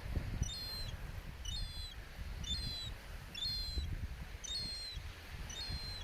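A small bird repeating a short, high, falling call about once a second, some seven times, over a low uneven rumble.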